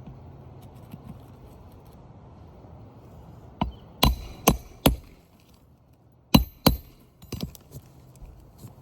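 Hammer striking metal shingle-repair tools or a nail, with a bright clink on each blow. There are four sharp strikes about half a second apart, a short pause, two more, then a few lighter taps.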